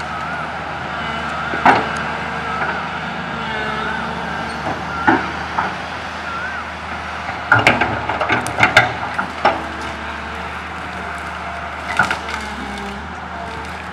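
Komatsu PC200 hydraulic excavator engine running steadily while tree branches crack and snap as they are grabbed and loaded, with a dense run of snapping about halfway through.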